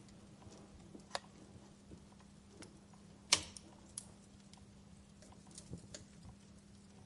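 Wood fire burning in a fireplace, crackling with scattered small snaps and one sharp, louder pop a little over three seconds in. A faint steady low hum runs underneath.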